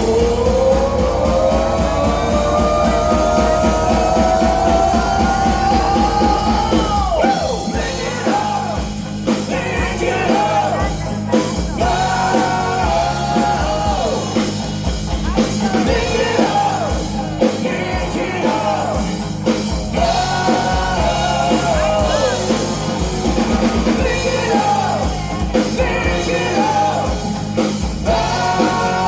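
Rock band playing over drums and bass. The lead line opens with one long note rising slowly in pitch for about seven seconds, then moves into shorter bending melodic phrases.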